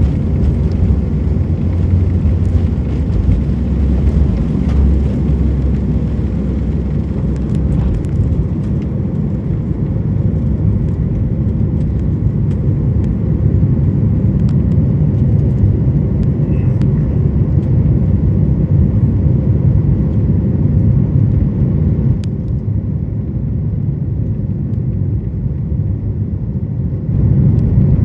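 Boeing 737 MAX 8 jet airliner taking off, its CFM LEAP-1B engines at high thrust making a loud, steady roar mixed with airflow noise. A deeper rumble under it fades out about eight seconds in, and the noise dips slightly past the middle before rising again near the end.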